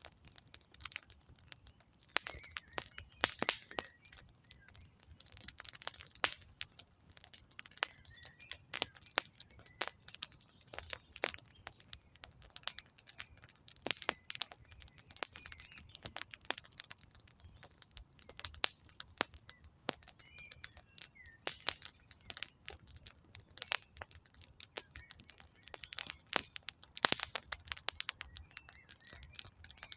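Wood campfire crackling, with many irregular sharp pops and snaps of burning logs. A few faint bird chirps come through now and then.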